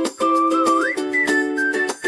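Upbeat background music: a whistled melody that slides between notes, over strummed plucked-string chords and a light beat.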